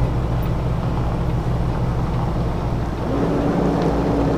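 Semi truck's diesel engine running steadily, heard from inside the cab. About three seconds in, a steady higher hum joins it.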